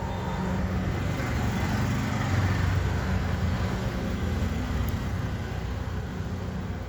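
A steady low rumble with a hiss, swelling a couple of seconds in and easing off toward the end.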